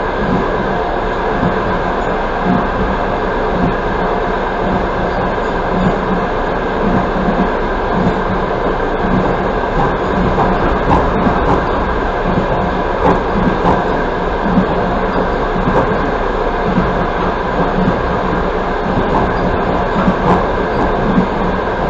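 Passenger train carriage running steadily at speed, heard from inside the car: a continuous rumble of wheels on rail with small irregular knocks and rattles.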